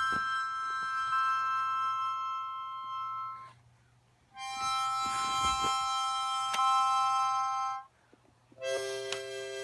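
Harmonica blown in three long held chords, each lasting about three to four seconds with brief pauses between; the third chord is lower in pitch than the first two.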